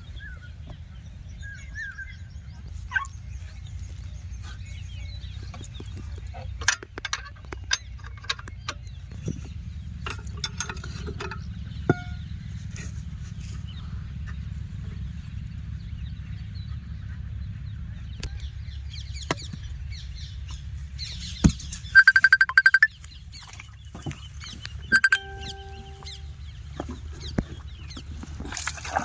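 Chickens clucking, with one loud, rapid run of clucks about two-thirds of the way through and a short call soon after. A steady low rumble and scattered clicks run underneath.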